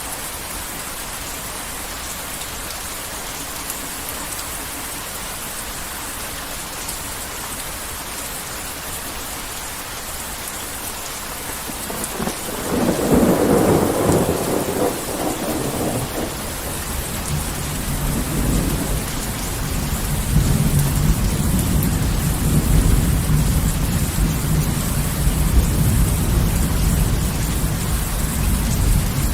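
Heavy rain falling steadily, with a sharp thunderclap about twelve seconds in that gives way to a long, low rolling rumble of thunder lasting to the end.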